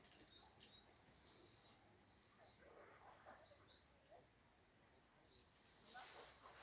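Near silence: faint outdoor quiet with a few faint, short, high bird chirps scattered through it and a faint rustle near the end.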